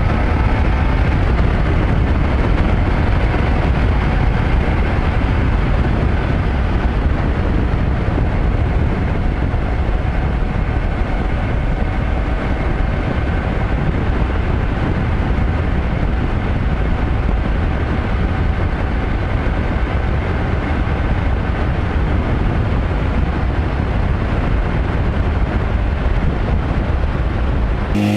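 Motorcycle ridden at a steady speed: a constant engine hum under heavy wind and road noise, strongest in the low end.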